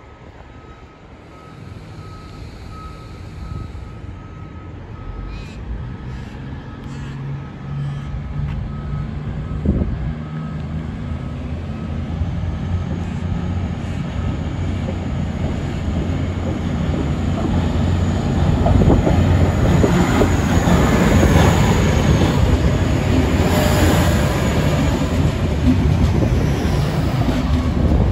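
V/Line VLocity diesel multiple unit drawing closer and passing, its diesel engine note growing steadily louder as it nears. A thin high whine rides over it in the second half.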